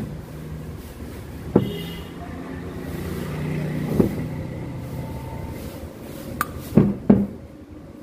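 About five sharp metal clicks and knocks from motorcycle engine parts and tools being handled, two of them close together near the end, over a steady low hum.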